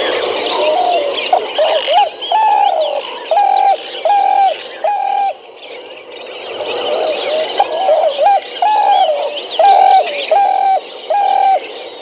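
Western spotted dove cooing: two phrases, each a few quick notes followed by several evenly spaced longer coos. Other small birds chirp throughout in the background.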